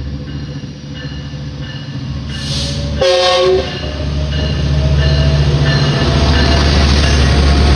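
A train rumbling closer and louder, with a short blast of its horn about three seconds in and a bell ringing steadily throughout.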